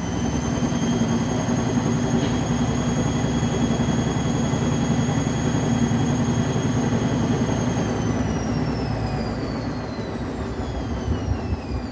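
Vestel washing machine spinning its drum at high speed in test mode: a loud motor whine over a heavy rumble, holding steady, then falling in pitch from about two-thirds of the way in as the drum spins down.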